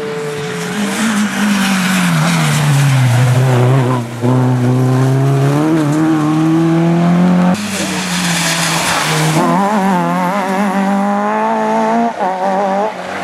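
Rally car engine coming off the throttle, its pitch falling, with a quick gear change about four seconds in. Past the middle comes about two seconds of tyre skid noise. The engine then revs up again with two quick gear changes near the end as the car accelerates away.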